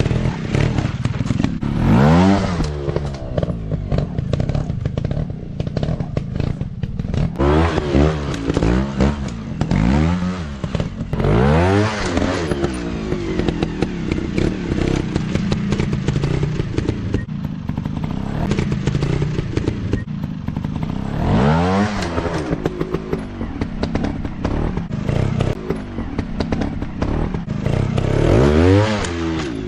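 Dirt bike engines running and revving in short throttle bursts, each rising and then falling in pitch, about six times. Scattered knocks and clatter run through it.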